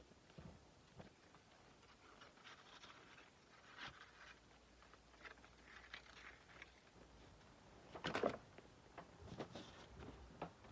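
Faint, scattered rubbing strokes and light taps from a kukri blade being sanded and handled by hand, with one louder brief scrape about eight seconds in.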